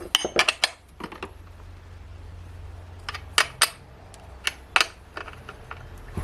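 Small metal parts and tools clinking and clicking as they are handled during chainsaw maintenance. There is a quick cluster of clicks at the start, then a few separate sharp clinks in pairs, over a low steady hum.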